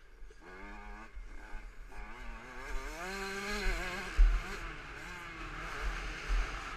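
KTM 65 SX two-stroke single-cylinder motocross engine revving hard and falling off as the throttle is worked, with a long climb in revs a few seconds in. Deep thumps punctuate it, the loudest a little past the middle.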